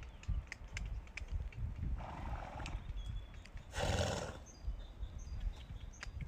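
A horse: scattered hoof clicks over low rumbling, with two short noisy blows about two and four seconds in, the second louder. Faint high chirps near the end.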